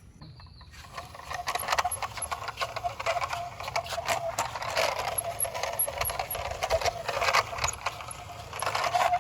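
A small metal toy van being handled, with a run of light clicks and rattles, over a faint steady tone.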